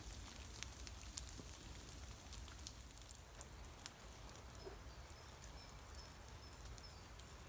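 Faint wet-woodland ambience: a low steady rumble with scattered light ticks of rain dripping, and a small bird giving a series of faint high chirps in the second half.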